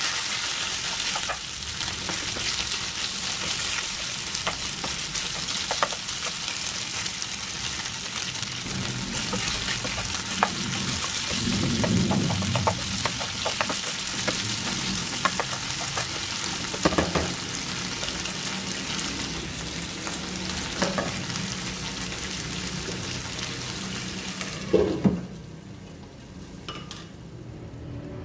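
Boneless chicken pieces sizzling in hot oil in a nonstick frying pan, stirred with a plastic utensil that scrapes and taps the pan now and then. Near the end, after a couple of sharp knocks, the sizzling cuts off.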